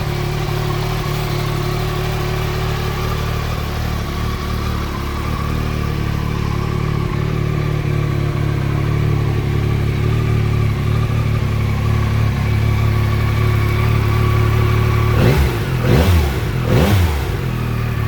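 Yamaha Tracer 9 GT's 890 cc inline three-cylinder engine idling steadily, then blipped three times in quick succession near the end, each rev rising and falling back to idle.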